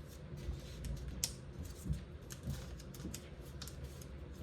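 Origami paper crinkling and crackling under the fingers as flaps are squash-folded and creased flat, a scatter of small irregular clicks, one a little sharper about a second in.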